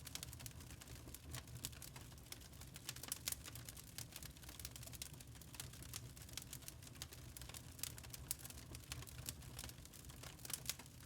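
Wood fire crackling: a dense, irregular run of sharp pops and snaps over a low, steady rumble.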